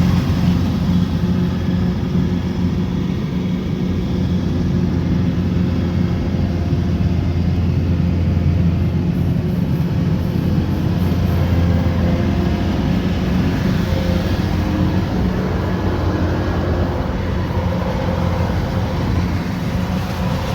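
Kubota combine harvester's diesel engine running steadily, a loud low drone with no breaks.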